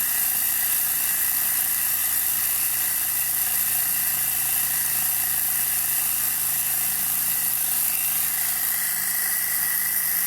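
A 16-cylinder model Stirling engine running at a steady speed, giving an even, high whirring hiss with a few faint steady tones in it.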